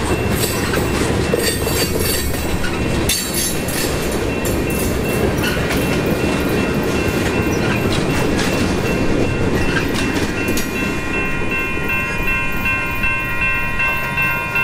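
Freight cars rolling over a grade crossing, wheels clattering over the rail joints. From about two-thirds of the way in, the crossing signal's bell rings out clearly over the rolling train, dinging several times a second.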